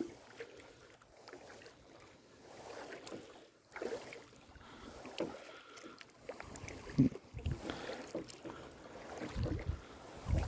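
Kayak paddling on a lake: quiet paddle splashes and water dripping at irregular intervals.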